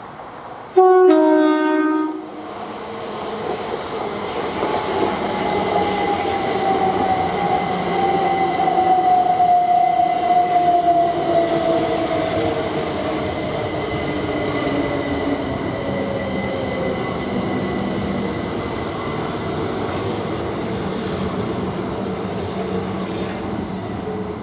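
Electric multiple unit sounding a short two-tone horn, high note then low, about a second in. It then runs past with wheel-on-rail rumble and a traction motor whine that glides slowly down in pitch. The rumble builds to its loudest mid-pass and fades as the train recedes.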